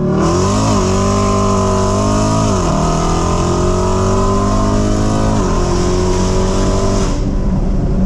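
A 392 Hemi V8 engine pulling hard at full throttle in a roll race. Its pitch climbs through each gear and drops at three upshifts, under a loud rush of wind that cuts off near the end.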